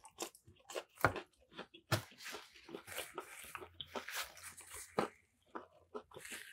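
Close-up mouth sounds of eating a crispy fried Nashville hot chicken sandwich: chewing with scattered crunches, the sharpest about a second in, about two seconds in and near five seconds.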